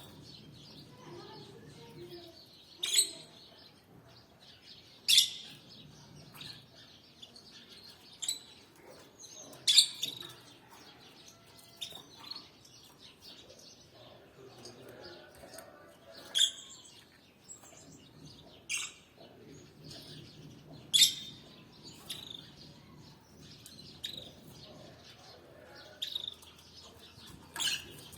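Canaries giving short, sharp single chirps, about one every two seconds, with no continuous song.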